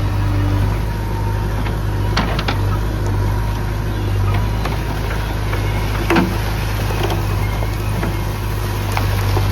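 Engine of a JCB-type machine running steadily with a low drone, with a few sharp knocks, the clearest about two and six seconds in.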